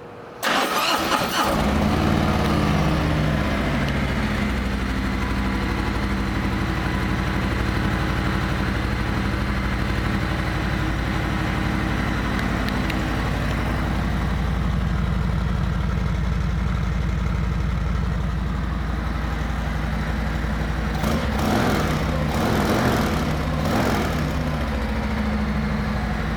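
2021 Harley-Davidson Street Glide Special's Milwaukee-Eight 114 V-twin starting about half a second in and settling into a steady idle, with a few quick revs near the end.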